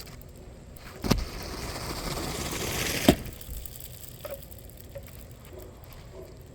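An asphalt roof shingle being cut: about two seconds of gritty scraping that grows louder, between two sharp snaps, the second one the loudest. A few faint ticks follow.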